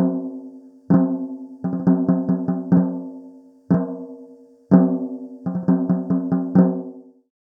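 A tuned drum struck in short rhythmic flurries of quick hits, each hit ringing with a low pitch and dying away. The last strike comes about seven seconds in.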